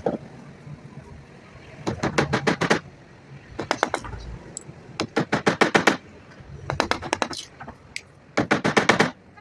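Rapid clicking or tapping in five short bursts, each a quick run of sharp knocks lasting under a second.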